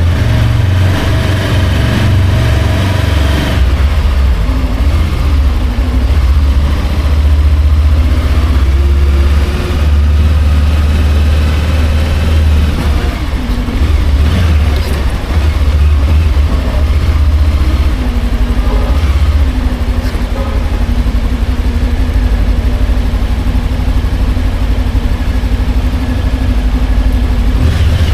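Motorcycle engine running while riding, with a heavy low rumble throughout. Its note shifts up and down in the first half, then holds steady for the last ten seconds or so.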